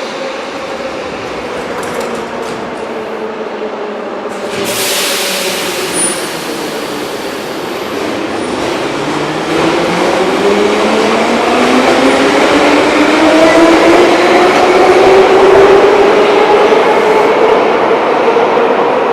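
Metro train's electric traction motors whining, the pitch falling at first, then rising steadily and growing louder as the train accelerates away. A burst of air hiss comes about five seconds in.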